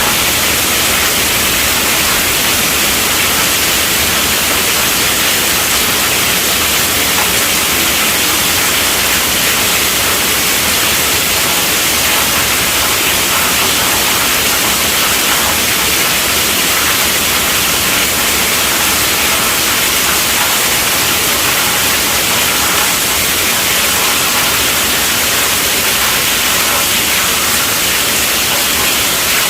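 Heavy rain falling steadily on a tent roof, a dense, even hiss with no thunder or other breaks.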